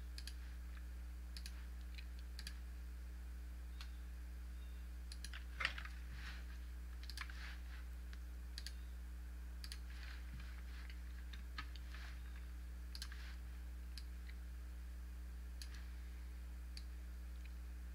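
Computer mouse clicking, a dozen or so separate clicks at irregular intervals, the way points are placed while drawing a spline, over a steady low electrical hum.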